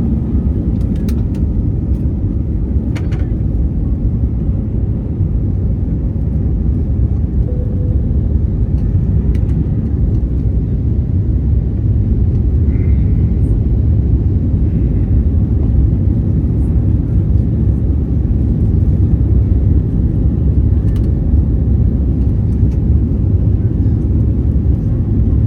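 Steady low rumble of an Airbus A321neo's engines and airflow heard from inside the passenger cabin during takeoff, with a few faint clicks in the first few seconds.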